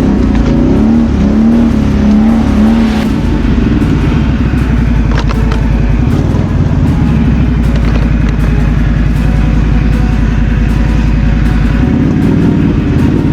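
Quad bike engine running under load. The engine revs rise and fall for the first few seconds, then it runs at a steady pulsing pace, and it revs up again near the end.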